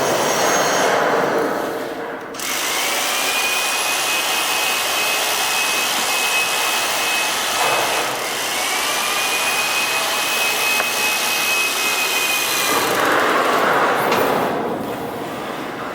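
A 2-ton electric hoist motor running as it lowers a heavy steel H-beam: a thin, steady high whine that rises into pitch as it starts, runs about five seconds, stops briefly and starts again for about another four and a half seconds. Under it is a steady loud noise.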